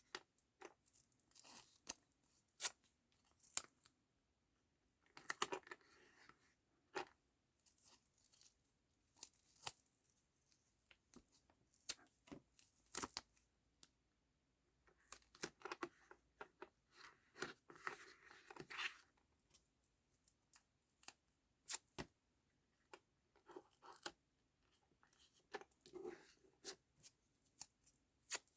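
Faint scattered clicks and short tearing rustles of double-sided tape being torn and peeled and card being handled, with longer rustles about five seconds in and again from about fifteen to nineteen seconds in.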